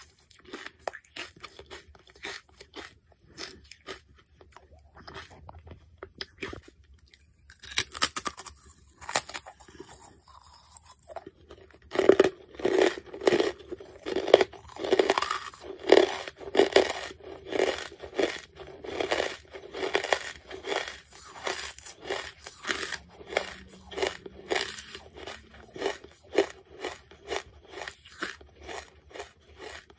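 Close-mic chewing of crunchy charcoal: crisp crunches and mouth clicks. It is quieter at first, has a sharp burst of crunching after several seconds, then settles into steady chewing at about two crunches a second.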